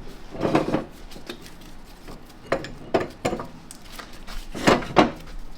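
Steel transmission parts and tools clinking and clanking against each other, a handful of separate metallic knocks with the two loudest close together near the end.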